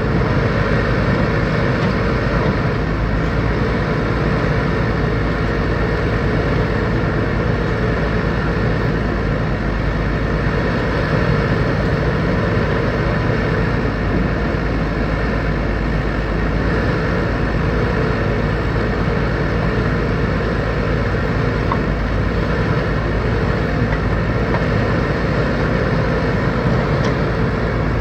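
Backhoe loader's diesel engine running steadily at work, with a higher tone that comes and goes every few seconds.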